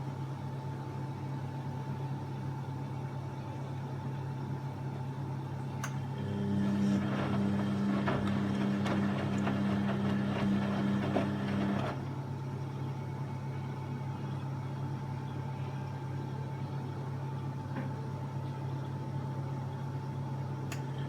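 Washing machine running with a steady motor hum; from about six seconds in, a louder motor sound with a whine joins for about six seconds, then cuts off, leaving the steady hum.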